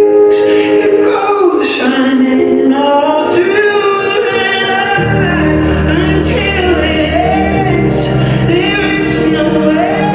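A song with voices singing a melody over backing music. A low bass accompaniment comes in about halfway through.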